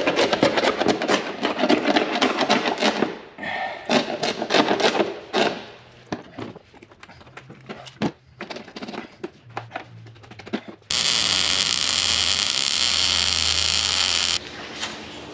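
A scraper working at old dried silicone on a box-truck ceiling: a dense run of quick scraping strokes for about five seconds, then scattered lighter scrapes and clicks. About eleven seconds in, a loud steady hiss starts and cuts off suddenly some three seconds later.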